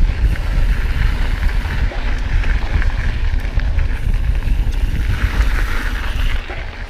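Wind buffeting the microphone of a mountain bike descending fast, with tyres crunching over loose shale and gravel and many small rattles and clicks from the bike. It gets a little quieter near the end.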